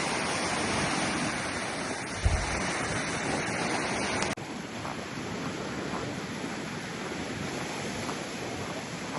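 Steady rush of ocean surf with wind on the microphone, a low thump about two seconds in. A little past four seconds it cuts abruptly to a quieter, thinner stretch of the same kind of rushing noise.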